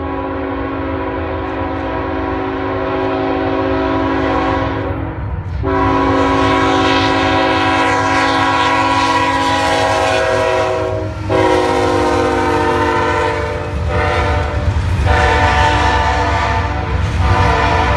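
Diesel locomotive air horn sounding a series of blasts: two long ones, then several shorter ones, with the pitch sagging slightly in the later blasts. A low engine rumble runs under the horn.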